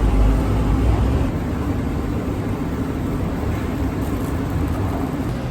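Steady rumble of a vehicle running, with a low hum; the deepest part of the rumble eases off about a second in.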